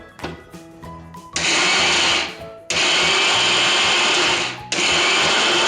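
Electric mixer grinder grinding soaked urad dal, run in three loud pulses of one to two seconds each with short gaps between, pulsing to keep the batter coarse.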